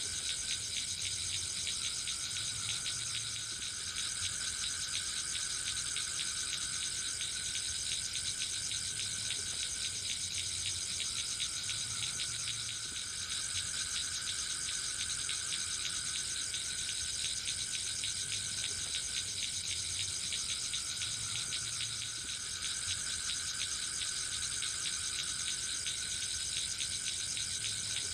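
Forest insects such as crickets trilling steadily in a dense chorus. A lower-pitched trill swells and fades every few seconds.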